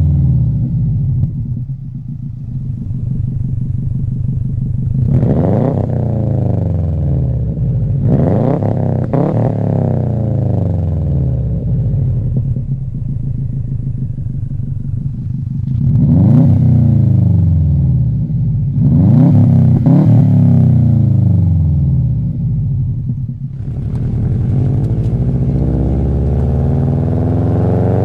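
Turbocharged 2.0-litre flat-four of a 2004 Subaru WRX through an Invidia N1 racing catback exhaust. It is blipped from idle about six times, each rev climbing quickly and falling back to idle. Near the end the car is under way, the engine running steadily with its pitch slowly rising.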